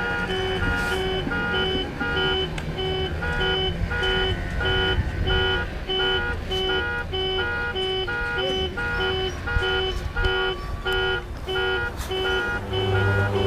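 An electronic beeper sounding steadily, about two beeps a second, like an alarm or reversing warning, over a low steady rumble.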